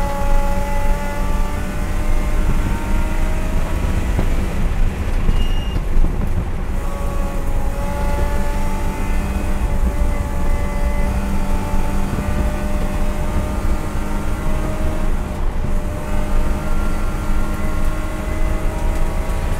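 Race car engine at high revs in fourth gear, heard from inside the cabin, its pitch climbing steadily as the car accelerates, dropping back once about a third of the way in, then climbing again. Road and wind noise throughout.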